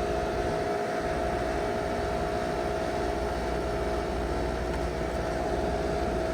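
Outdoor air-conditioning condensing unit running: a steady hum with a low rumble and two steady tones.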